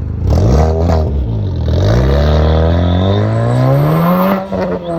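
Car engine revving: a couple of quick blips, then a steady climb in pitch under acceleration for about three seconds, which drops sharply near the end and settles at a lower, steady pitch.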